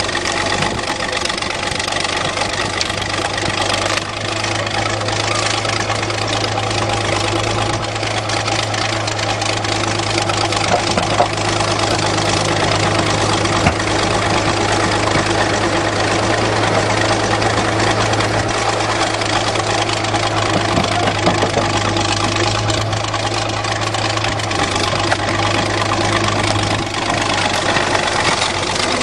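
An engine idling steadily, a constant low hum without revving.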